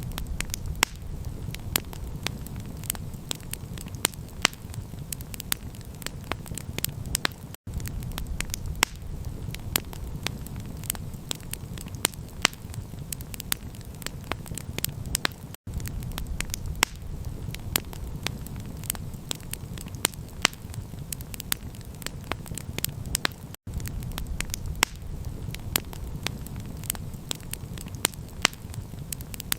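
Campfire crackling, with frequent sharp pops and snaps over a steady low rumble. The sound cuts out for an instant three times, about every eight seconds, as a looped recording restarts.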